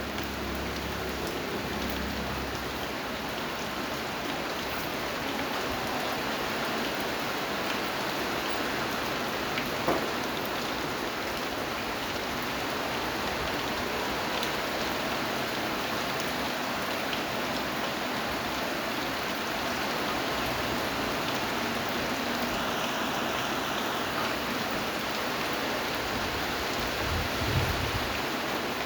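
Steady rain falling in an even, unbroken hiss. There is a single sharper tick about ten seconds in and a soft low thud near the end.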